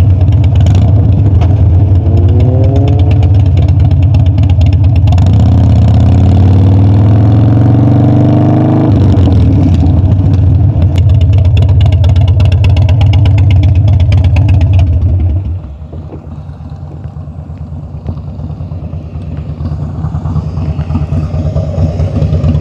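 Harley-Davidson Dyna's V-twin engine under way, rising in pitch as it accelerates. About 15 seconds in it backs off to a quieter, lower running, then picks up again near the end.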